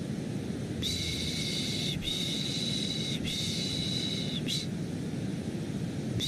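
Rhythmic 'shh, shh' shushing for soothing a baby, three long shushes of about a second each in a row followed by a brief one, then a pause. It plays over a steady, deep white-noise rumble.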